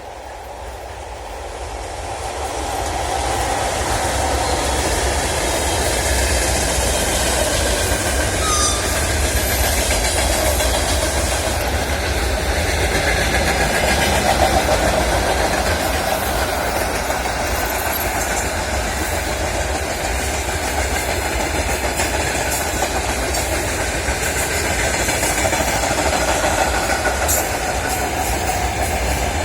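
Freight train rolling past, its wagon wheels running on the rails, growing louder over the first few seconds and then holding steady.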